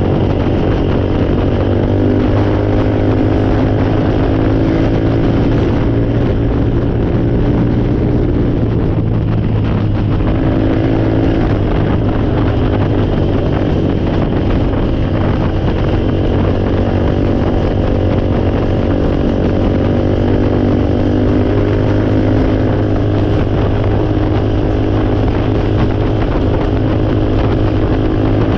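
Four-wheeler (ATV) engine running steadily at a loud level, its pitch dipping and then rising again about ten seconds in.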